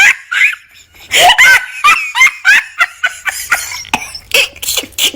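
High-pitched laughter in quick, short bursts, about three a second, after a brief pause near the start.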